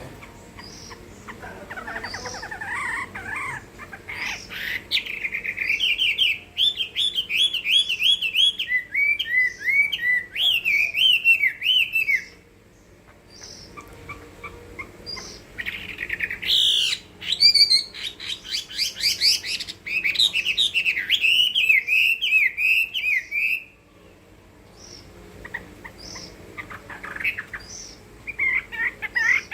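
Chinese hwamei (melodious laughingthrush) singing loudly in competition song: long bouts of rapid, warbling whistled phrases, breaking off about twelve seconds in and again a little over twenty seconds in, then starting up again near the end.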